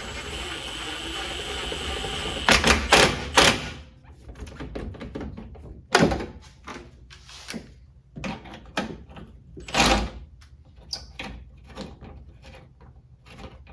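Hand tools and metal parts clinking and knocking during work in a pickup's engine bay, with scattered sharp knocks: a cluster about two and a half seconds in, then single ones about six and ten seconds in. A steady hiss runs under the first four seconds, then stops.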